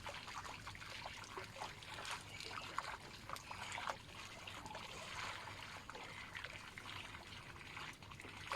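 Water trickling and dripping, with many small light splashes.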